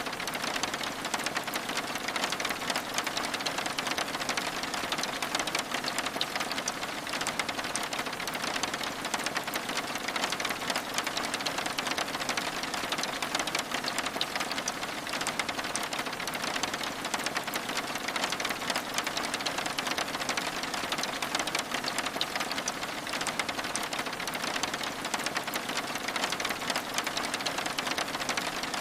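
Steady rain on window glass: an even hiss dense with fine, rapid drop ticks that never lets up.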